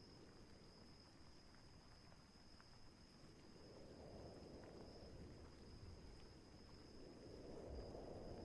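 Faint night storm ambience: soft low rumbles of distant thunder swelling about four seconds in and again near the end, over a steady high insect drone like crickets.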